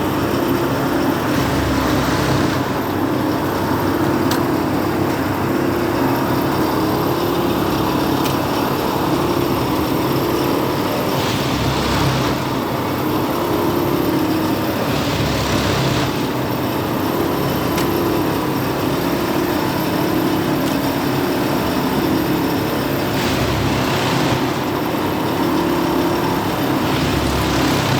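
Railway track packing (tamping) machine working: its engine and machinery run steadily, with louder surges of noise about a second long every few seconds.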